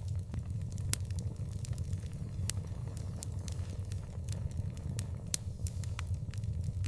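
Wood fire burning, with sharp crackles and pops scattered irregularly over a steady low rumble. Two pops stand out as loudest, one about a second in and one a little past five seconds.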